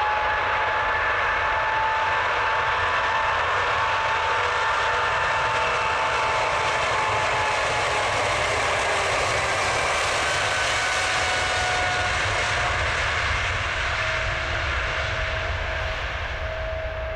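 Boeing 777-200ER's twin turbofan engines at takeoff power: a loud steady roar with whining fan tones that slide slightly lower, fading over the last few seconds as the jet moves away.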